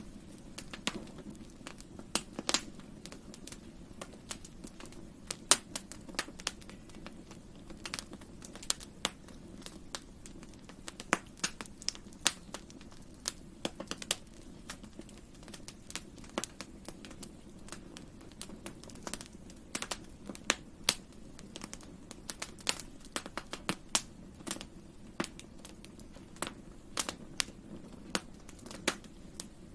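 Wood campfire burning: irregular sharp crackles and pops, sometimes several in quick succession, over a low steady background.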